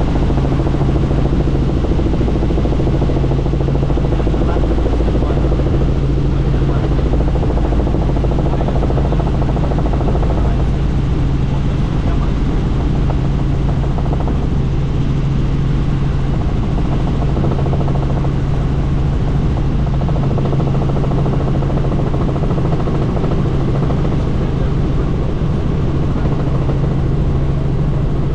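Helicopter in steady flight heard from inside the cabin with the doors off: a loud, even drone of engine and rotor, with a steady low hum and rushing air.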